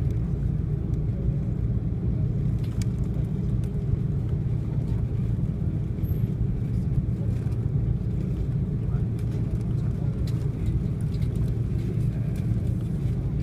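Steady low rumble of an Airbus A330-300's jet engines and airframe, heard inside the passenger cabin, with a few faint clicks.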